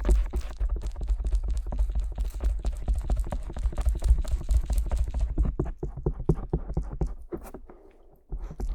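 Stainless-steel ear pick scraping and tapping on the silicone earflap of a binaural dummy-ear microphone: quick close-up scratches and clicks over low, muffled rubbing thuds. It thins out in the second half and stops briefly near the end before starting again.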